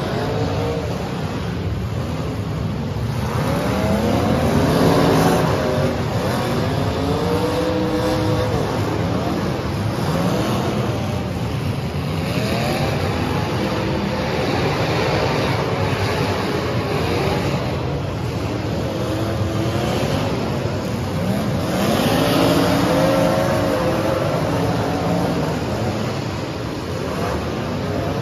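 Several full-size demolition derby cars' engines revving hard over and over, each rev climbing in pitch and dropping away, over a steady low din. A few times the noise swells louder for a second or two.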